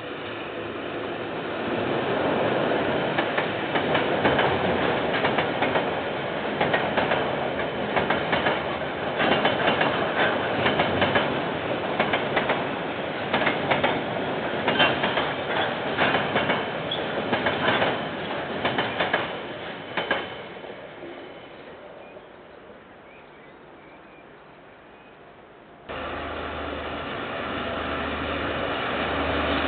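KiwiRail container freight train passing, its wagon wheels clickety-clacking over the rail joints, then fading away. About 26 s in the sound cuts abruptly to a second freight train approaching, its diesel locomotive's engine a low steady drone under the rail noise, growing louder toward the end.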